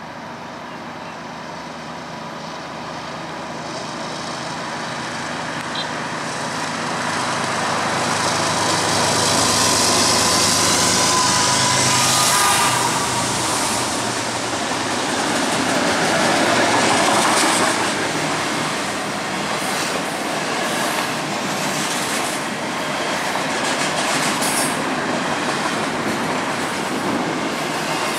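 CSX freight train's diesel locomotives approaching and passing beneath, growing steadily louder to a peak as they go under, then double-stack intermodal container cars rolling by with a steady rumble and repeated wheel clicks on the rail joints.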